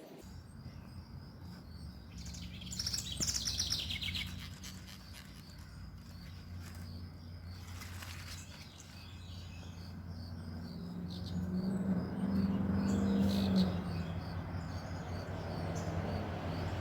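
Small birds chirping, over a steady low mechanical hum that grows louder in the second half.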